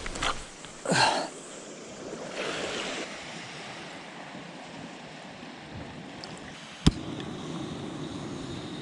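Waves washing on a beach with some wind, broken by two brief loud handling noises in the first second and a single sharp click about seven seconds in.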